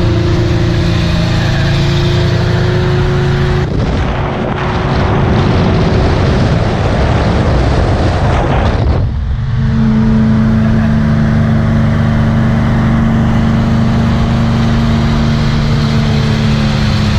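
Car engine running at steady revs, with loud rushing noise from about four to nine seconds in, after which the engine note settles steady at a lower pitch.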